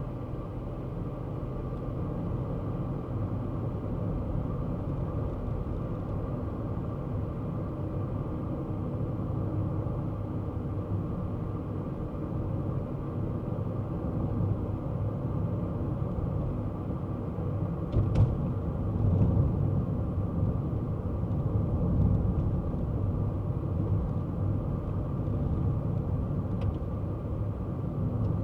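Kei car driving along at a steady pace: a low, even rumble of engine and road noise, with a short knock about two-thirds of the way through.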